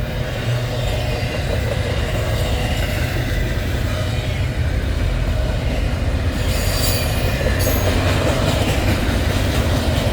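Freight train cars rolling past with a steady low rumble, wheels squealing and screeching on the rails; the squeal grows brighter and sharper about six and a half to eight seconds in.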